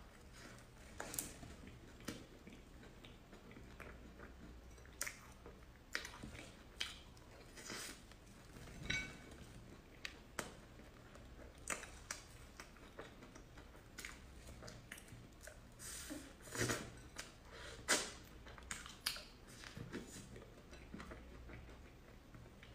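Cream puffs being bitten and chewed close to the microphone: soft, irregular mouth clicks and smacks.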